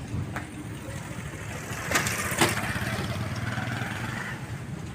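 Vehicle engine running steadily, with a sharp knock about two seconds in and a louder one half a second later.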